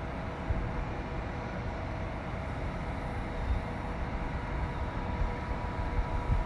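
Steady outdoor background noise: a low, uneven rumble with a faint steady hum above it.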